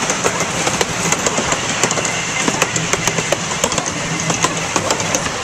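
Small amusement-park train running along its track, heard from the passenger cars: a steady rumble and low hum with frequent irregular sharp clicks and rattles from the wheels and cars.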